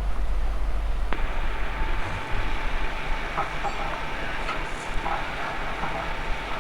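Steady low rumble of a running engine, with one sharp click about a second in.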